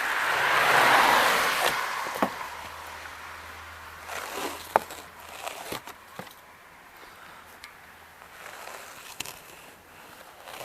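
Light powder snow being brushed and scraped off a car, with a string of short scrapes and several sharp knocks. A broad whooshing swell peaks about a second in and fades away.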